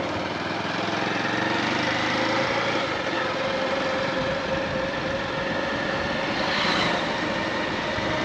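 Motorcycle engine running at a steady speed while riding, its note holding even, over road noise.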